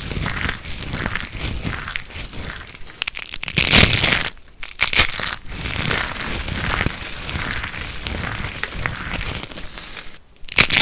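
Dry soap being crushed and crumbled, a continuous crisp crackling crunch that swells loudest about four seconds in and breaks off briefly twice.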